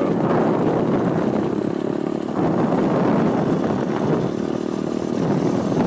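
Pit bike's small motor running while it is ridden, its pitch wavering a little with the throttle.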